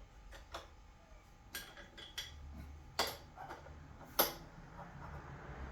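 Metal tools and small parts clinking as they are handled on a workbench: a handful of separate sharp clicks, the loudest about three and four seconds in, over a faint low hum.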